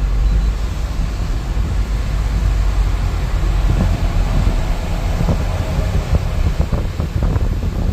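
Wind buffeting the microphone as a heavy, steady low rumble, with scattered short taps and crackles in the second half.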